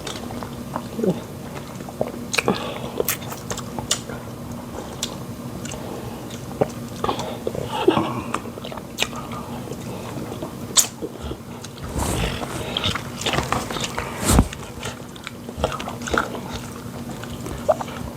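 Close-miked eating sounds: chewing, lip smacks and wet mouth clicks of people eating fufu and fish in pepper soup, scattered and irregular, busier near the end, over a faint steady hum.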